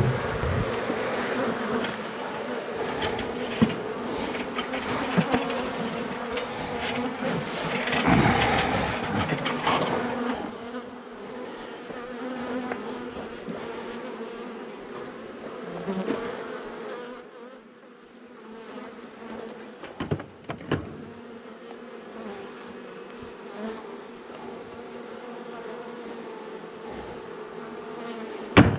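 A mass of honey bees buzzing as a steady, droning hum, loudest in the first ten seconds and then softer. The colony is agitated, the sign of bees disturbed from their nest in a wall. A few sharp knocks sound now and then.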